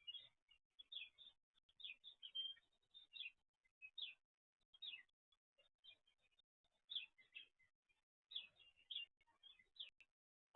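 Faint bird chirping: many short, high twittering notes in scattered clusters.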